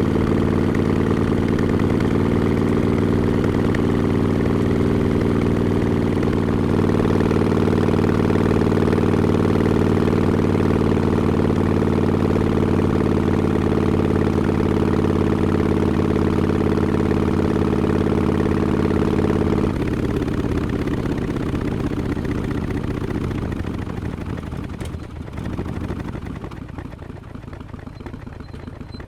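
Harley-Davidson XL1200X Forty-Eight's air-cooled 1200 cc V-twin running steadily through Vance & Hines Short Shots pipes with the quiet baffle. About two-thirds of the way in the steady engine note stops abruptly, leaving fainter noise that fades.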